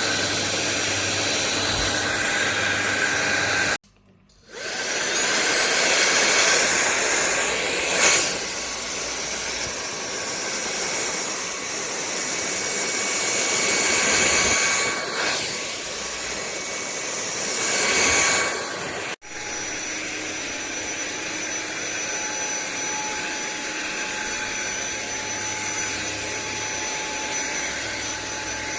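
Sulean X8 cordless stick vacuum running with a steady high-pitched whine, its level swelling and easing several times. The sound breaks off about four seconds in and again about two-thirds of the way through, each time resuming at once with a slightly different tone.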